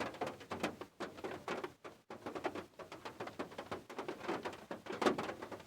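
Rain drops pattering: a dense, irregular run of small taps and ticks, several a second.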